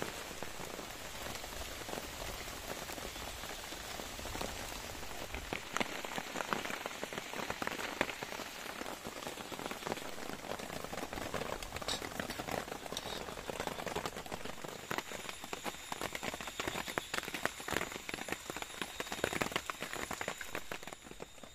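Steady rain falling, with a dense run of close drops striking a surface.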